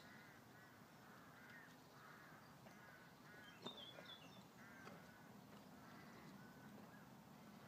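Faint, distant birds calling over and over in short calls, about one or two a second, with a soft click and a few higher chirps a little under halfway.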